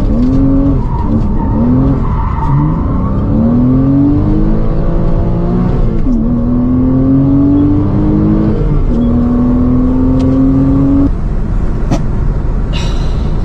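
Car engine revving in a few short rises and falls, then accelerating hard through the gears. Its pitch climbs steadily in each gear, with two upshifts, and the revs drop away near the end.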